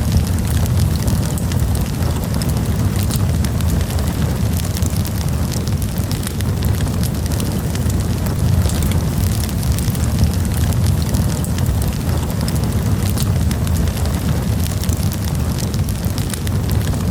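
Wood campfire burning, with many quick crackles and pops over a steady low rumble of the flames.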